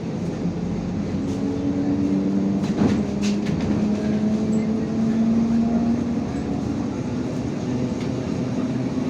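IVECO Crossway 13M LE city bus under way, heard from inside: a steady engine and drivetrain hum whose tones rise gently in pitch, with a few clicks and rattles about three seconds in.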